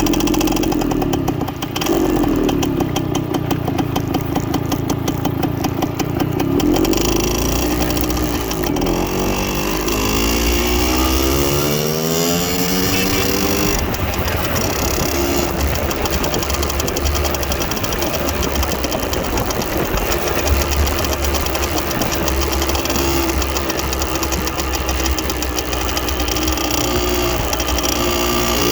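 The 1969 Harley-Aermacchi MLS-125 Rapido's small two-stroke single-cylinder engine running under way. About eight seconds in, the pitch climbs steadily as the revs rise, then it settles into a steadier engine note.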